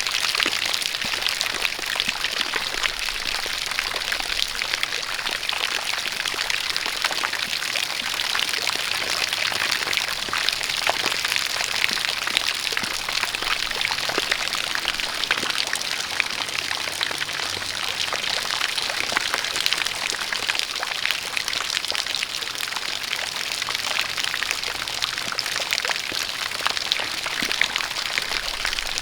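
Steady rain falling together with a jet of water pouring, an even hiss dotted with many small drop taps.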